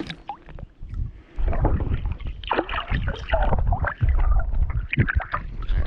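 Wind rumbling on the microphone, with scattered knocks and splashing water around a small boat.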